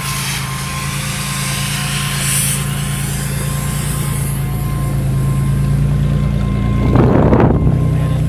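A car engine idling steadily close by, slowly getting a little louder, with a brief louder burst of noise about seven seconds in.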